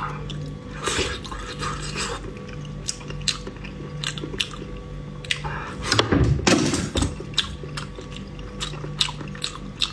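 Close-miked chewing: wet mouth clicks and smacks of someone eating, with a louder burst about six seconds in. A steady low hum runs underneath.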